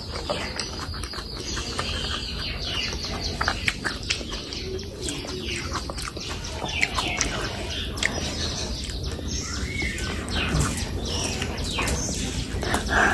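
Close-miked chewing of oily chicken skin curry and rice: wet mouth sounds with many small clicks and lip smacks.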